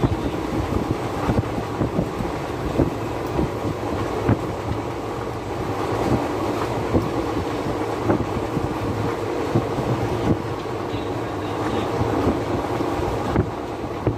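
Himsagar Express passenger coach running at speed: a steady rumble and rattle with irregular clacks of the wheels over the rails, and wind on the microphone.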